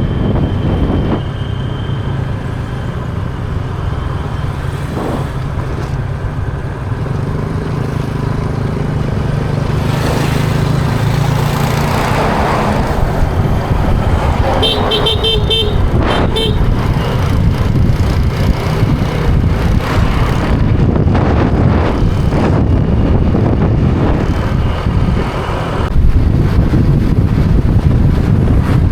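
Motorbike riding with the engine running and wind buffeting the microphone. A horn beeps briefly about halfway through.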